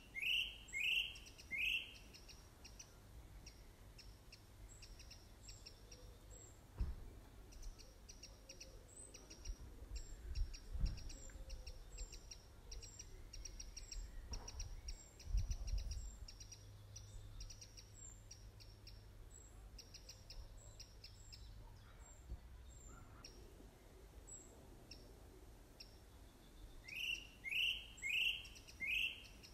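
Birds singing: a phrase of four loud sweeping notes near the start and again near the end, with a fast run of short, high chirps through the middle. A few low thumps sound in between.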